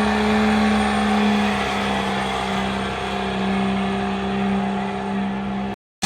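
Truck engine held at steady high revs, with a broad hiss over it. It cuts off abruptly just before the end.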